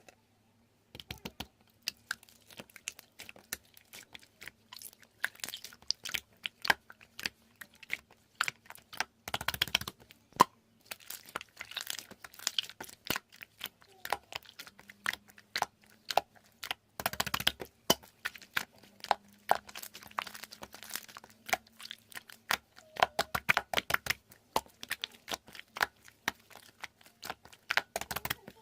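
Dense, irregular crackling and crunching clicks, close up, starting about a second in and running on without a steady rhythm.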